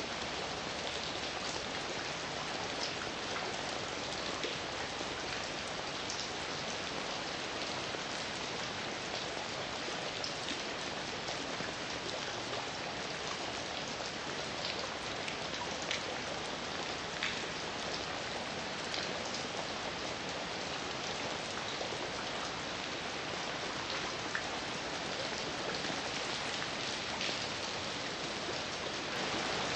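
Steady heavy rain falling, an even hiss with many individual drops pattering on a surface.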